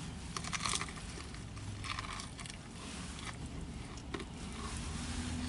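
A person chewing a mouthful of chicken burger: soft, faint mouth sounds in short patches.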